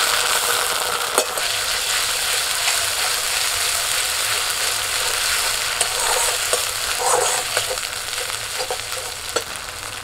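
Freshly added ground spice paste (soaked dried red chillies and cumin) sizzling in hot mustard oil in a kadai, stirred with a metal spatula that scrapes and taps the pan a few times. The sizzle is loud at first and slowly dies down.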